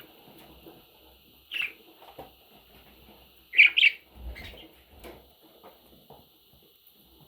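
Budgerigar chirping: a short chirp about one and a half seconds in, then a louder double chirp about two seconds later, with soft ticks and rustles in between.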